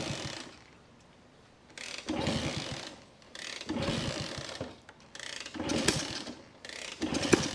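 Kick starter of a vintage small-displacement motorcycle being kicked about five times, roughly once every second and a half to two seconds, each stroke a ratcheting mechanical churn of the engine turning over. The engine does not fire: it is a no-start.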